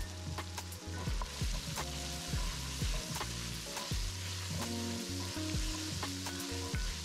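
Diced onion, carrot, celery, bacon and garlic sizzling in an enameled cast-iron Dutch oven while a wooden spoon stirs them, with scattered light knocks of the spoon against the pot.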